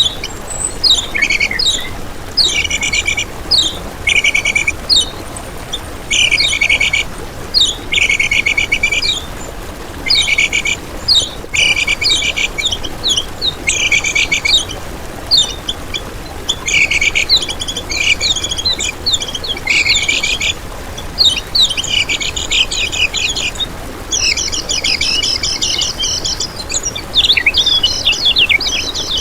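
Kecial kuning, a small white-eye, singing in full flow: rapid, high, chattering song phrases of about a second each, repeated every second or two, running into a longer unbroken stretch near the end.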